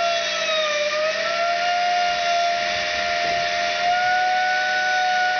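A ball-bearing computer fan spun at high speed by air from a Dyson DC08 vacuum cleaner: a steady high whine over rushing air, the pitch dipping briefly about a second in and then recovering.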